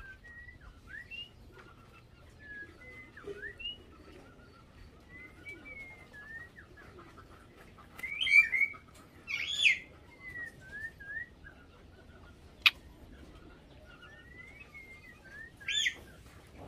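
Birds chirping, with many brief whistled notes that slide up or down, and louder calls about eight seconds in, again about a second and a half later, and once near the end. A single sharp click about twelve and a half seconds in.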